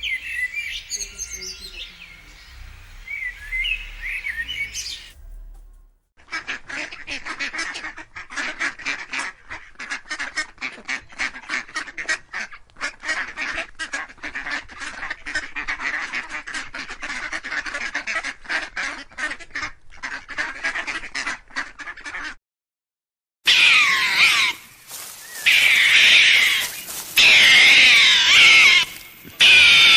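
Birds calling in a series of separate clips. First comes chirping. After a brief break comes a dense, rapid chatter of many calls, like a flock of ducks or geese. After another short gap come louder calls that glide up and down in pitch.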